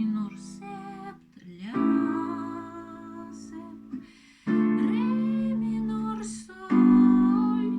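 Acoustic guitar chords struck one at a time: three chords about two to three seconds apart, each left to ring and die away.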